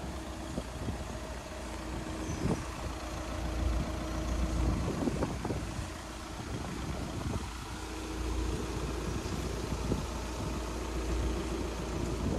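Audi Q3's 2.0 TDI four-cylinder diesel engine idling steadily, with a few soft knocks from footsteps on tarmac.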